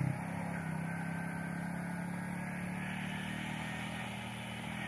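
Motorcycle engine running steadily as the bike rides away, its hum growing slightly fainter.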